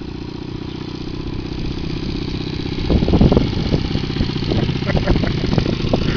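Motorcycle engine running at low speed with a steady low note, growing louder as the bike comes closer. From about halfway, wind buffets the microphone.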